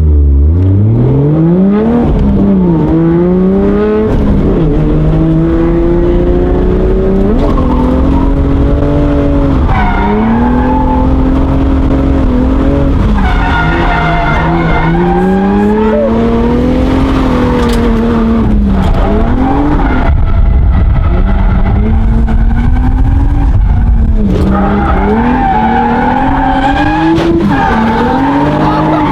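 Drift car engine revving hard, its pitch climbing steeply at first and then swinging up and down every few seconds as the throttle is worked through the drift, with tyres squealing and skidding.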